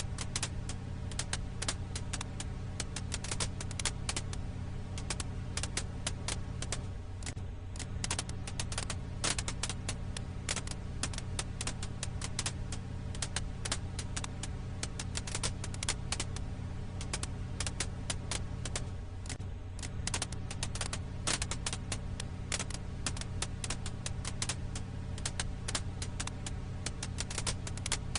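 Crackling wood fire: dense, irregular pops and snaps over a steady low hum.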